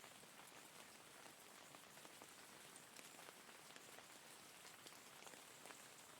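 Faint, steady rain: an even hiss with many individual raindrops ticking through it.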